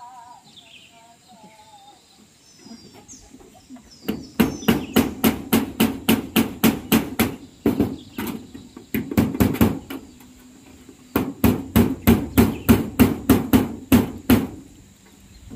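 Hammer driving nails into corrugated zinc roofing sheets: quick, sharp strikes about four a second, starting about four seconds in and coming in runs of a few seconds with short pauses between.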